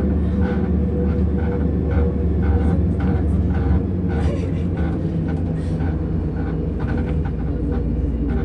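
Steady running noise inside a MAZ-105 articulated city bus on the move: a constant low engine and road drone, with faint passenger voices over it.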